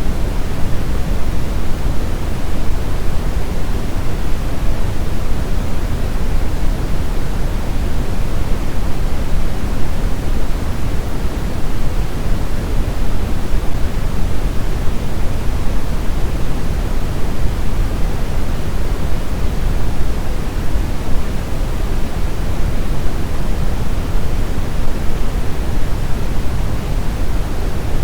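Brown noise: a steady, even hiss with no events, deepest and strongest in the low range and fading off toward the highs.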